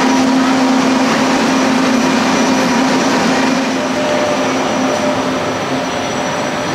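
Steady noise of trains standing at a station platform, with a low steady hum that fades about halfway through.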